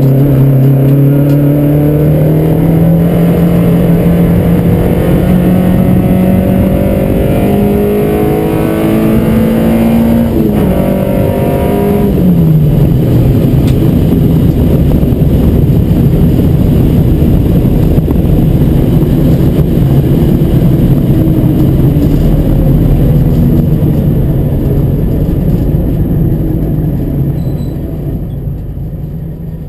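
Peugeot 205 Rallye's four-cylinder engine heard from inside the cabin under hard acceleration. Its note climbs steadily for about ten seconds, breaks briefly, drops sharply a couple of seconds later, then runs at a steady lower pitch and fades out near the end.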